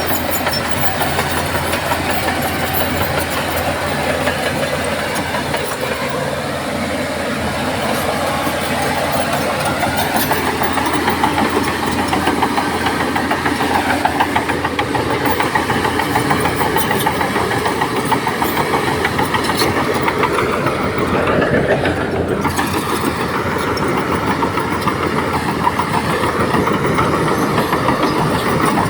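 Heavy diesel engine of earthmoving machinery running steadily under load. The engine pitch dips and then rises again about twenty seconds in.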